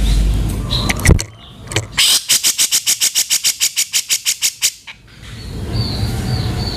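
Cucak jenggot (grey-cheeked bulbul) giving a harsh, rapid chattering call of about nine notes a second, lasting nearly three seconds from about two seconds in. Before it there is a low rumble with a few sharp clicks, and after it come fainter high notes.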